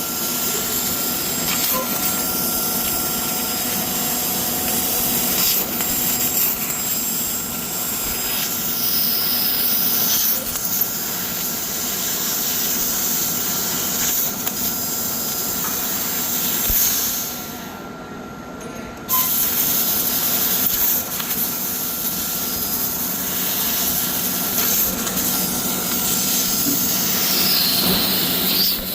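CNC laser cutting machine running: a steady hiss over a constant hum, with faint high whines rising and falling now and then. The hiss cuts out for about two seconds just past the middle, then comes back.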